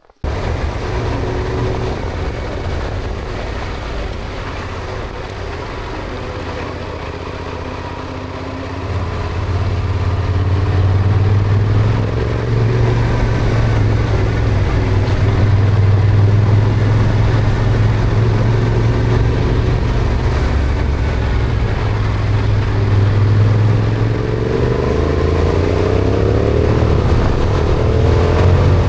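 Yamaha Ténéré motorcycle engine running on the move, getting louder about nine seconds in, with the engine note rising near the end as it revs up.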